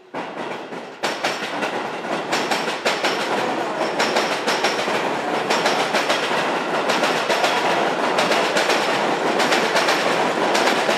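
Electric commuter train running close by, its wheels clattering over rail joints in a steady run of sharp clicks over continuous rolling noise.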